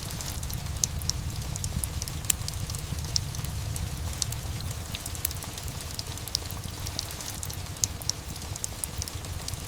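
Steady rain over a low, constant rumble, with a fireplace crackling in scattered sharp pops throughout.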